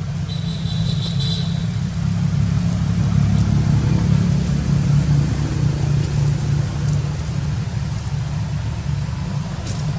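A steady low rumble like a running engine, swelling a little in the middle, with a brief high chirping tone about a second in.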